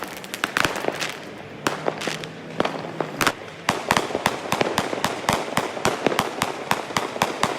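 Fireworks going off in a rapid, irregular run of sharp bangs and crackles, several a second, coming thicker from about halfway through.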